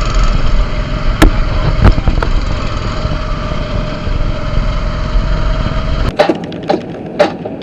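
A vehicle's low engine rumble with a few sharp knocks. The rumble cuts off suddenly about six seconds in, and sharp clicks follow.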